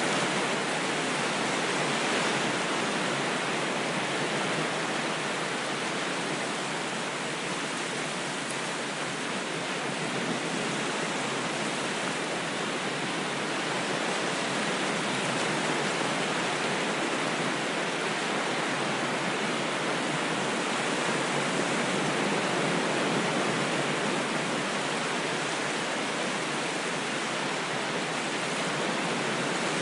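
Ocean waves heard as a continuous, even rush of water that swells and eases slowly.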